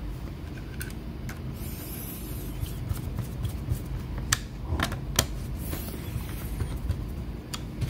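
Scattered light clicks and knocks of a laptop and its plastic parts being handled and fitted together, over a steady low hum.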